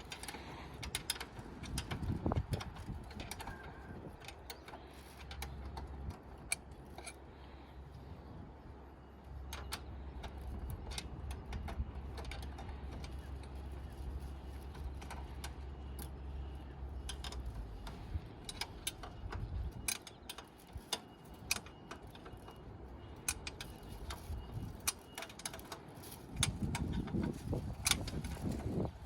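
Scattered small mechanical clicks and taps, as of hands and tools working on a mechanism, over a low steady hum that stops about two-thirds of the way through.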